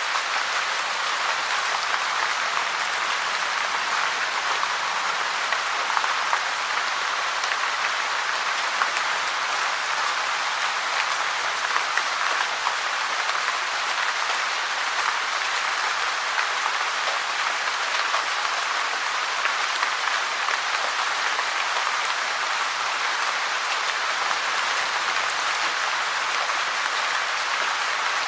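Steady, dense rainfall: an even hiss of many small drops pattering, with no break or change.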